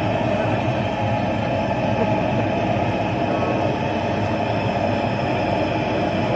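Lanz Bulldog tractor's single-cylinder two-stroke hot-bulb engine running steadily.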